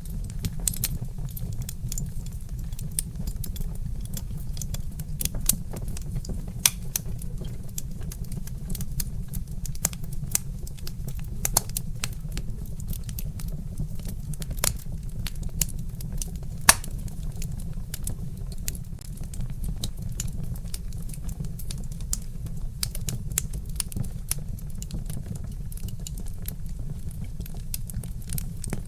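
Wood fire crackling: irregular sharp pops and snaps from burning logs over a steady low rumble, with one louder pop a little past halfway.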